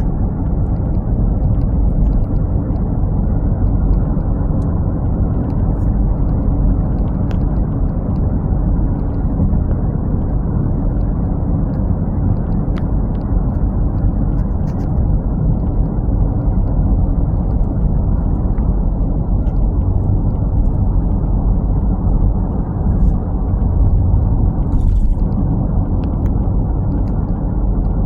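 A truck driving: the steady low rumble of its engine and road noise.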